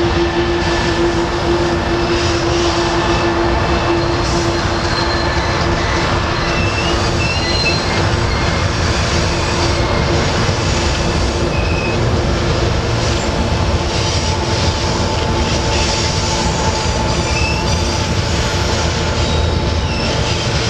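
Iron ore train wagons rolling past on a curve of the track, a steady loud noise of wheels on rails with short, high wheel squeals now and then.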